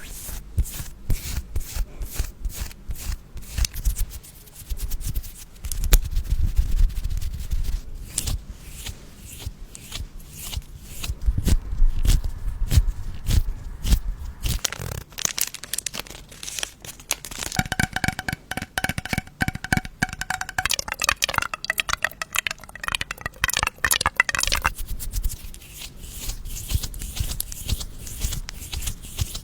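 Paper being torn and crinkled in a dense run of crackles and rips. About two-thirds through, a few held tones sound for several seconds over the crackling.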